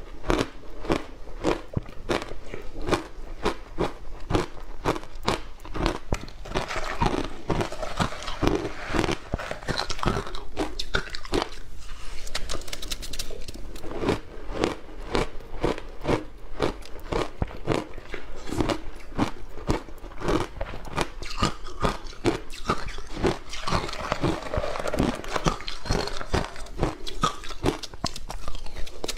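A person biting and chewing crunchy ice close to the microphone: a continuous run of sharp, irregular crunches, several a second.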